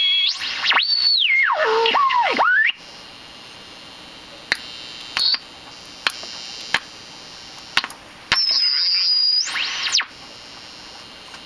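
Toshiba Uguisu GS five-tube superheterodyne radio squealing from abnormal oscillation around the tuning point: loud whistles gliding up and down in pitch for the first few seconds, then hiss with scattered sharp clicks, then a steady high whistle that sweeps upward and cuts off. The fault lay in the coupling capacitor between the local oscillator and mixer and the bypass capacitors.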